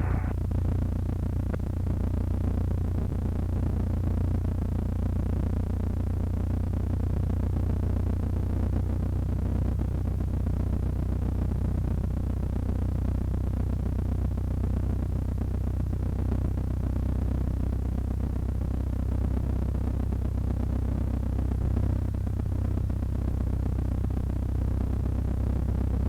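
Cessna 152's four-cylinder Lycoming engine and propeller droning steadily in flight, heard from the cockpit as a constant low hum made of several steady tones.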